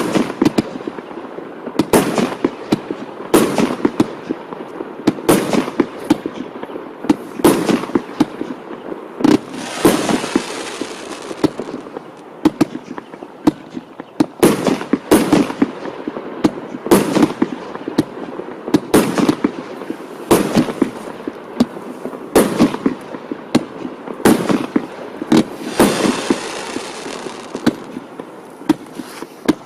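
Firework battery (cake) going off: a continuous run of sharp bangs, about one to two a second, with crackling between them. Twice, about a third of the way in and again near the end, a longer hissing crackle follows the bangs.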